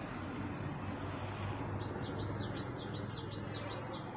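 A bird chirping: a quick run of sharp, high calls, about three a second, starting a little before halfway. Under it is a steady low hum.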